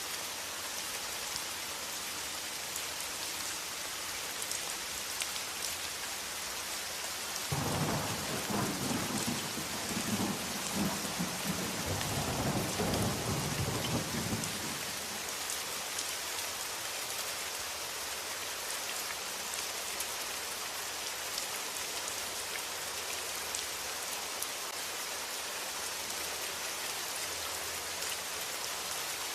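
Steady rain falling, with a roll of thunder rumbling for about seven seconds starting about a quarter of the way in.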